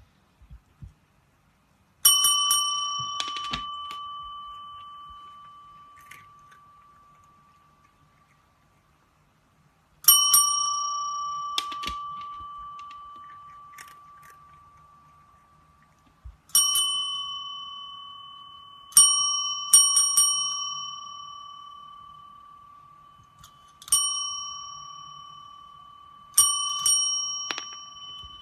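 A small metal bell is struck about seven times at irregular intervals, a few seconds apart and twice in quick succession. Each strike leaves a clear, bright ring that dies away slowly over several seconds.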